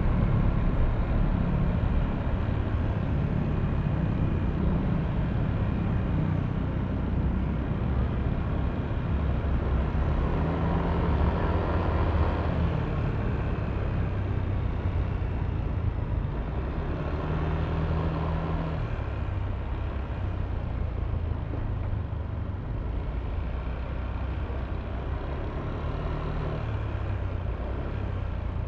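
Yamaha Aerox V3 scooter's single-cylinder engine running under way in city traffic, with road noise. The engine note swells twice, about a third and two thirds of the way through, then eases back.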